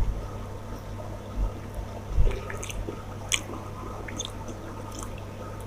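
Close-up mouth sounds of someone eating rice and curry: moist chewing and lip smacks. A few sharp clicks come in a cluster around the middle, over a steady low hum.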